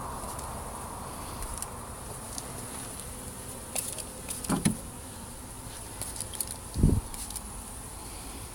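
A honeybee swarm buzzing around an open hive box, with scattered faint clicks and two short low thumps, about four and a half and seven seconds in.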